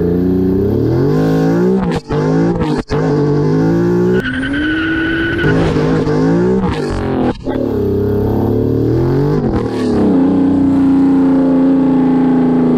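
Toyan FS-L400 miniature four-cylinder nitro engine running and being revved, its pitch climbing and falling, with abrupt breaks as the footage cuts from clip to clip. Near the end it holds a steadier, higher note.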